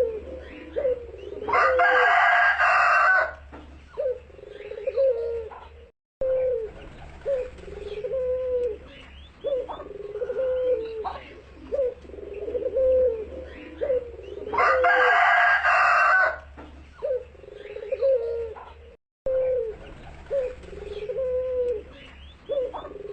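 Barbary dove (puter) cooing over and over in short, rolling low notes, about one a second. Twice a much louder, longer call of about a second and a half cuts in, and the sound drops out briefly twice.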